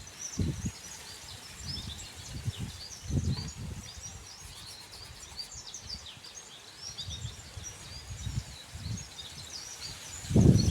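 A chorus of small birds chirping, with many short, quick calls overlapping. Under it come irregular low thumps and rumbles, the loudest near the end.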